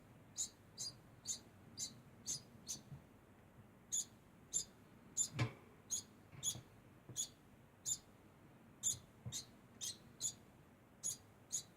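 Degu making short, high-pitched chirping squeaks over and over, about two a second, with a short break about three seconds in. A soft thump comes near the middle.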